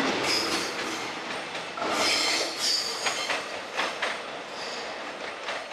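Electric suburban train running on the rails, its wheels squealing in short repeated bursts, with a few sharp clicks over the rail joints.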